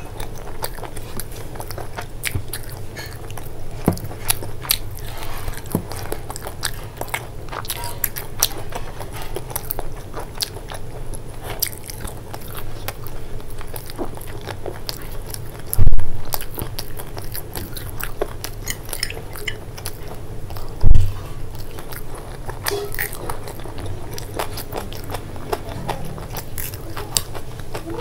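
Close-miked chewing of a fried momo, with crisp crackles and crunches throughout. Two loud, low thumps come about halfway through, some five seconds apart.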